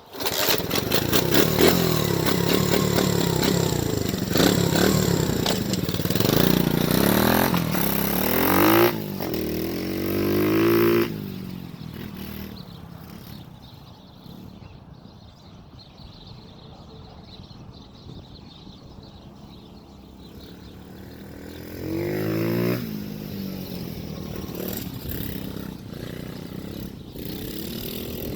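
110cc semi-automatic pit bike engine being ridden, revving up and down through the gears for about ten seconds. It then falls to a quieter, steadier running, with one more short rev later on.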